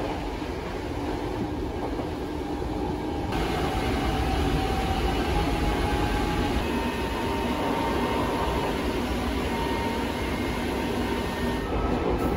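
Hankyu Kyo-train Garaku commuter train running, heard from inside the passenger car: a steady rumble of wheels on the rails with a few faint steady tones over it.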